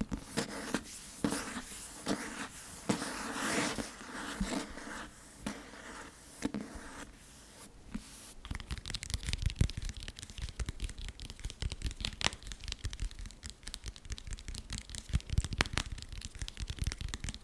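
Fingernails scratching over a book, then fast tapping on it: a dry scratching for about the first seven seconds, then a quick run of sharp taps to the end.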